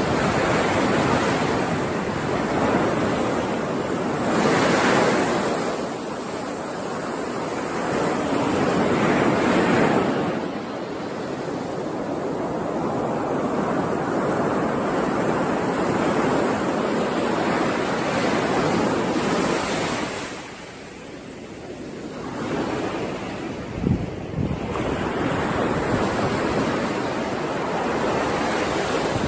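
Ocean waves breaking and washing on the shore, a steady rush that swells and ebbs every few seconds. A single brief low thump comes about three-quarters of the way through.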